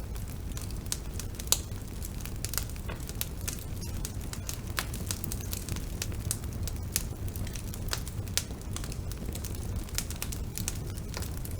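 Wood bonfire burning, with frequent irregular sharp crackles and pops over a steady low rumble of the flames.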